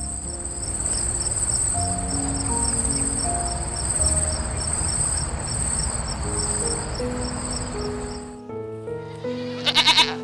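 An insect trills steadily with a high, pulsing chirp about four times a second over background music, and stops suddenly near the end. Just before the end a short bleating call is heard over the music.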